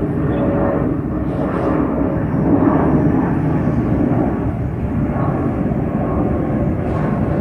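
Airbus A320-232 jet airliner climbing out overhead just after takeoff: its two turbofan engines at takeoff power give a loud, steady rumble with a faint steady hum on top.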